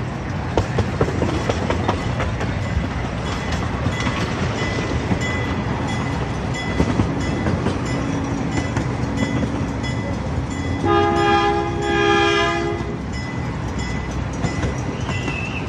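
Small amusement-park train running along its track: a steady rumble with scattered clicks from the wheels on the rails. About eleven seconds in, its horn sounds a chord in two short blasts close together.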